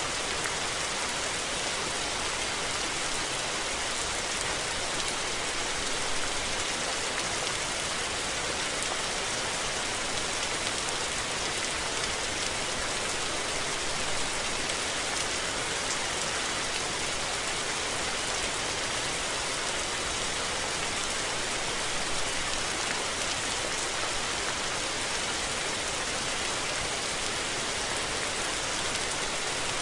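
Steady rain falling, an even hiss of many drops with faint scattered patters and no let-up.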